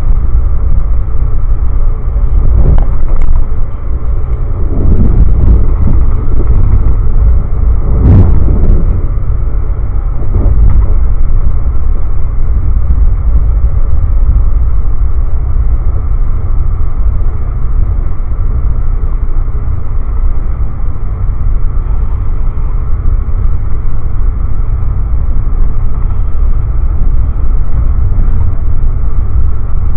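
Amtrak passenger train running at speed, heard from inside the coach: a loud, steady rumble of wheels on rail. A few louder knocks come in the first ten seconds, then it runs on evenly.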